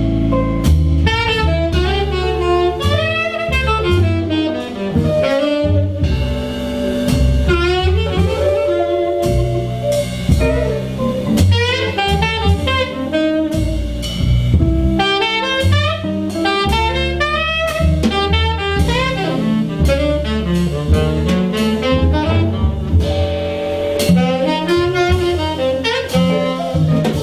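Jazz combo playing an instrumental solo chorus, with a lead instrument playing quick melodic runs over bass and drums.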